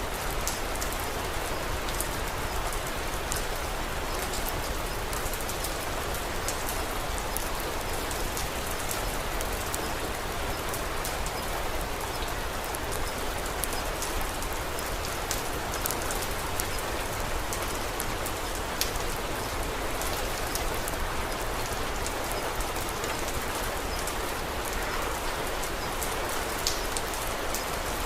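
Steady rain falling, mixed with a wood fire in a fireplace crackling: scattered sharp ticks over the even hiss, a few of them louder pops.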